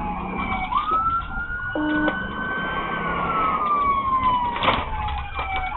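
Police car siren wailing in a slow wail: it rises about a second in, holds, slides slowly down, then starts rising again near the end, over a low engine rumble.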